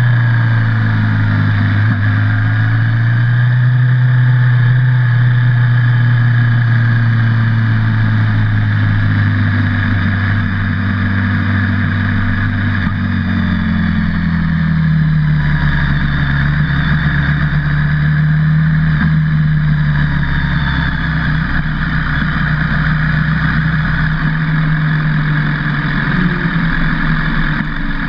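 BMW HP4's inline-four engine running at low revs as the bike rolls slowly at pit-lane speed. The engine note dips near the start as the bike slows, then wavers gently up and down without any hard revving.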